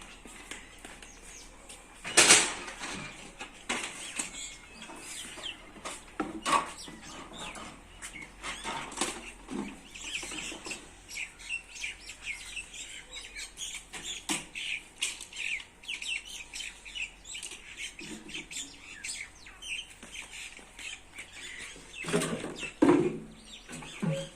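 Small birds chirping over and over, with a loud knock about two seconds in and a cluster of knocks and clatter near the end.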